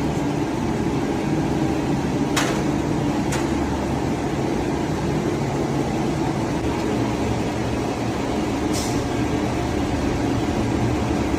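Steady low hum and rumble of running machinery, with three sharp knocks: one about two and a half seconds in, another a second later, and one near the end.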